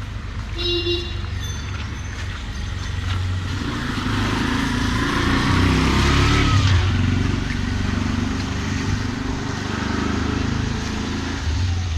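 A motor vehicle passing close by on a street, its engine and tyre noise building up, loudest about six seconds in, then easing off.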